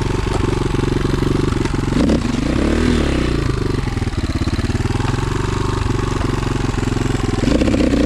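Enduro motorcycle engine running and being revved as the rider tries to climb a steep, rooty section. The revs rise and fall about two to three seconds in, then climb again near the end.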